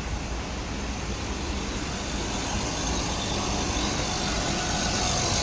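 A small tube ice machine running: a steady mechanical hum with even fan-like noise and a few low steady tones, growing gradually louder.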